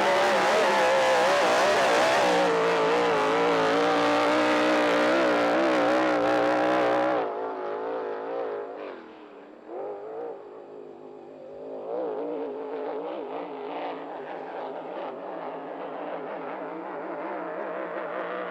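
A 5-litre racing hydroplane's engine running hard at speed, its pitch wavering. About seven seconds in, the sound abruptly turns duller and fainter and dips lowest a couple of seconds later, then the engine carries on, quieter and more distant.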